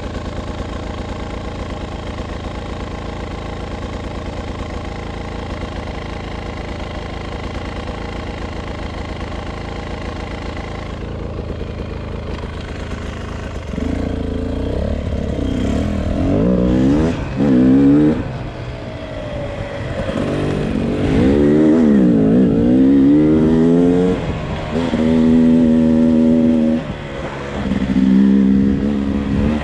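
Beta RR 300 single-cylinder two-stroke enduro motorcycle engine running at a steady idle, then, about halfway through, getting louder and revving up and down repeatedly as the bike is ridden, with a couple of brief drops off the throttle.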